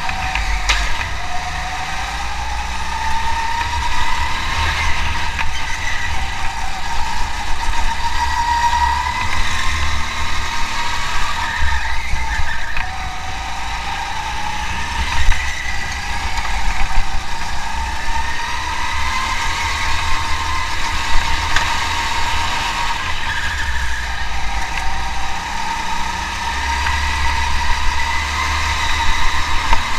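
Racing car engine under load, its pitch repeatedly climbing over several seconds and dropping back as it accelerates through the gears, over a heavy deep rumble.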